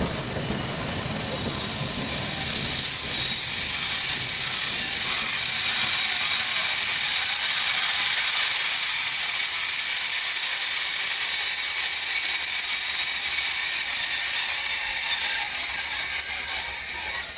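Passenger coaches rolling slowly through a station with a steady, high-pitched metallic squeal from their wheels and brakes as the train slows. The low rolling rumble fades away over the first few seconds.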